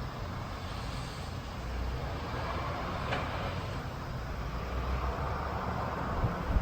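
Distant thunder rumbling low over a steady hiss, swelling about two seconds in and again near the end.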